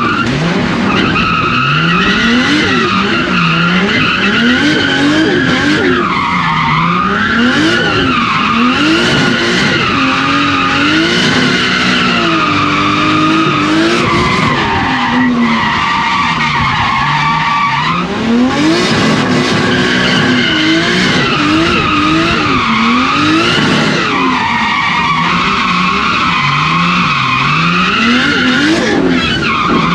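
Nissan 180SX drift car drifting, its engine revving up and down again and again, with tyres skidding.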